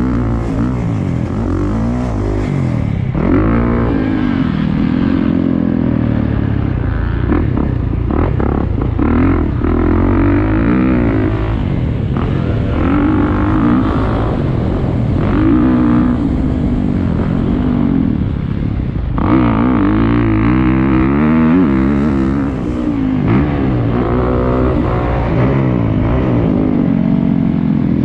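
Motocross dirt bike engine revving up and dropping back over and over while riding a lap, its pitch rising and falling every second or two, with a heavy low rumble underneath.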